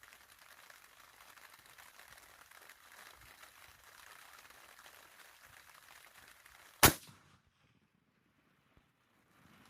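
A single sharp, loud rifle shot from a Howa rifle in 6.5 Creedmoor, about two-thirds of the way in, over a steady hiss of rain and wind. The sound drops out almost completely right after the shot.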